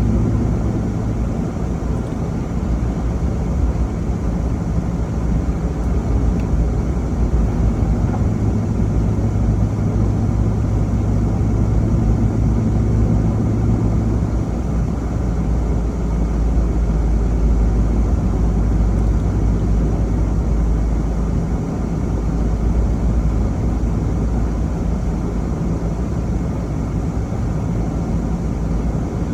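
A vehicle driving, heard as a steady rumble of road and engine noise with a low engine hum; the hum changes pitch about halfway through.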